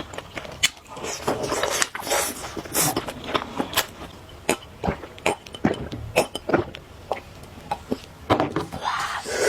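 Close-miked eating: repeated bites and chewing with short clicks of utensils against dishes.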